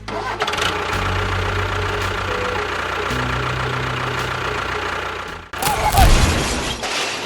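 A small motor running steadily, stopping about five and a half seconds in, followed by a brief louder burst of noise.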